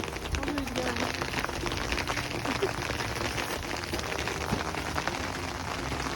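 BB-size hail pelting down: a dense, steady patter of countless tiny hard impacts.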